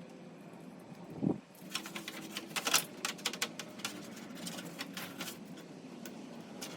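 A low thump about a second in, then a few seconds of sharp clicks and rattles: snowplow wiring-harness plugs being handled and connected.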